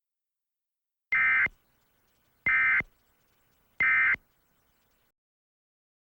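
Emergency Alert System end-of-message data bursts: three short, buzzy digital chirps about a second and a quarter apart, the standard signal that closes an EAS alert.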